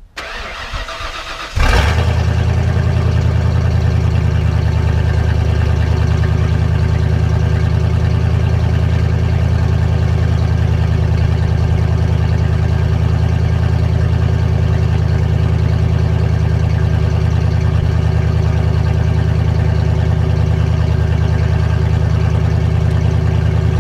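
Cold start of a 1992 Ford Bronco's 5.8-litre V8 with a straight-pipe exhaust: the starter cranks for about a second and a half, the engine catches with a sudden jump in loudness, then settles into a loud, steady idle.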